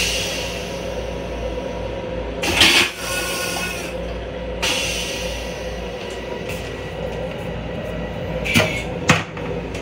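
Steady rumble and hum of an M7 electric railcar running, heard from inside its small restroom. A brief loud rush of noise comes about two and a half seconds in, and two sharp knocks come close together near the end.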